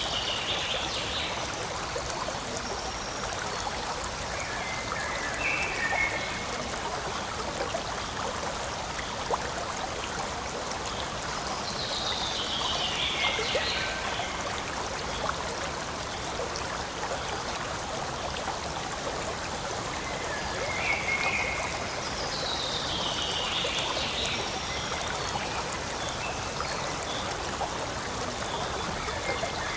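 Forest stream flowing steadily over rocks, a continuous rushing and trickling. Short falling calls break in above the water a few times.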